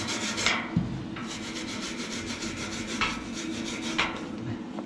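Stick-welding arc from an inverter welder burning a 6011 rod on thin, rusty, painted sheet metal: a steady, harsh crackle with a few louder surges.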